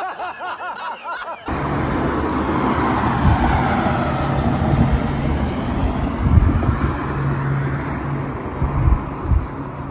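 Laughter and voices for about a second and a half, then an abrupt change to steady road-traffic noise with a low, steady motor-vehicle hum.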